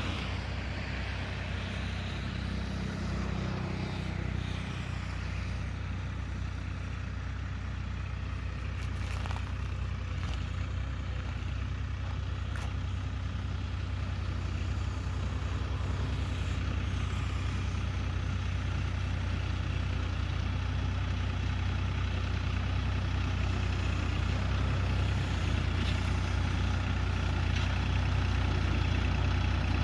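Sonalika RX42 tractor's diesel engine running steadily at a low, even speed, gradually getting a little louder.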